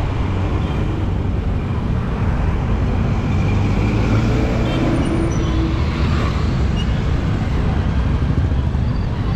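Vehicle driving on a rough road: a steady engine and road rumble.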